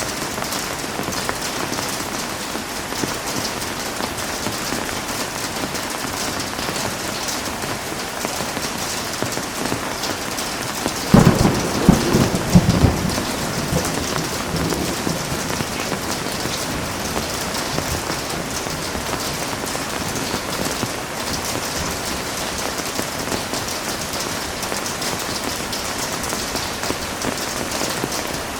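Heavy rain falling steadily, with a sudden crack of thunder about eleven seconds in that rumbles on for a few seconds and dies away under the rain.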